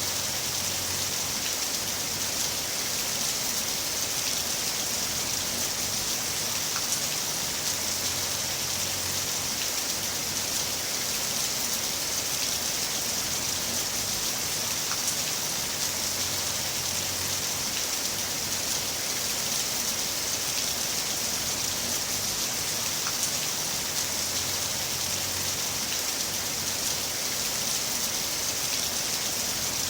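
Heavy rain falling steadily, a continuous even hiss of drops on surfaces, with a faint low hum that comes and goes every several seconds.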